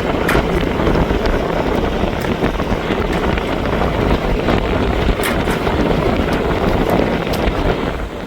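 Wind buffeting the microphone aboard a sailboat underway in choppy water, with the rush of waves around the hull and a few sharp ticks.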